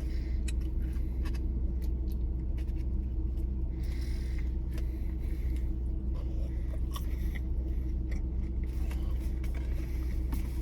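Steady low rumble of a car cabin with the engine idling, with scattered small clicks and rustles from eating.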